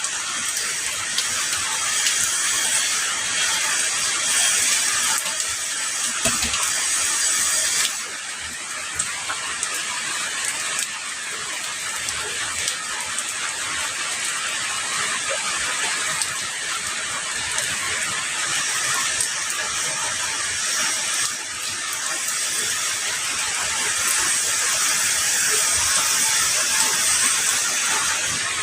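Heavy rain falling steadily, a dense even hiss. Its bright upper hiss drops back about eight seconds in and builds again near the end.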